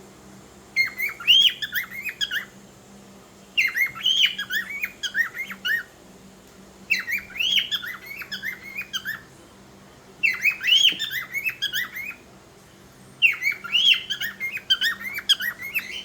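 Cockatiel chirping and whistling a short warbled phrase, repeated five times with a pause of about a second between each.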